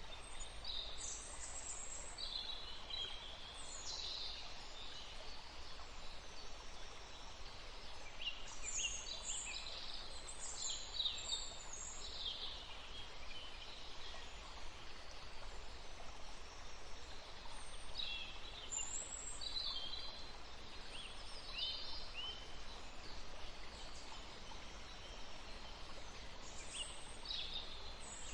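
Birds chirping in bursts of quick, high notes, with pauses of a few seconds between the bursts, over a steady background hiss.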